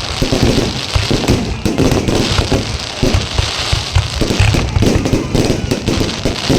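Fireworks display going off in quick succession: dense, overlapping booms and crackling bursts with no pause.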